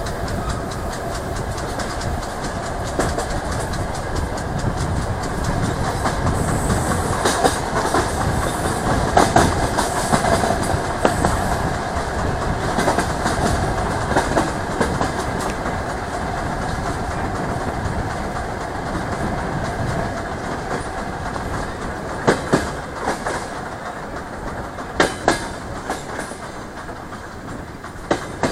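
DR1A diesel multiple unit running along the line, heard through an open carriage window: a steady rumble of wheels on rail, with a few sharp clacks of the wheels crossing rail joints in the second half.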